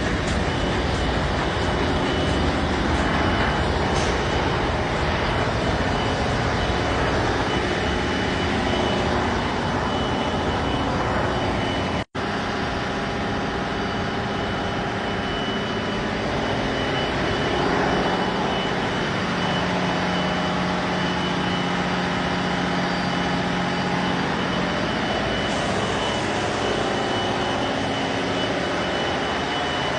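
Cargo ship engine-room machinery running, a loud steady din with a thin high whine over it. The sound cuts out for an instant about twelve seconds in.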